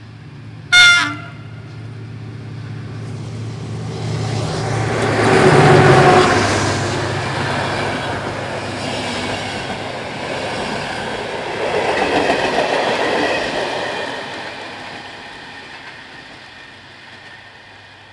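A locomotive sounds one short horn blast about a second in, the loudest moment. Then a passenger train passes close by: the sound builds to its loudest as the locomotive goes past around six seconds in, swells again as the coaches go by around twelve seconds in, and fades as the train moves away.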